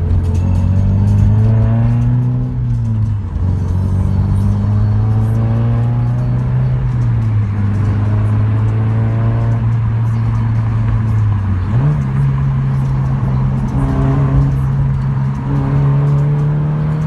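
Car engine running at held revs, its pitch rising and falling slowly, then stepping up and holding higher about two-thirds of the way through.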